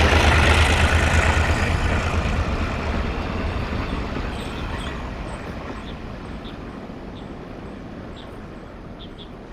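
Diesel freight train hauled by two locomotives running past, with a low engine rumble and wheel noise that are loudest at first and fade steadily as the train moves away. A few faint high ticks are heard in the later seconds.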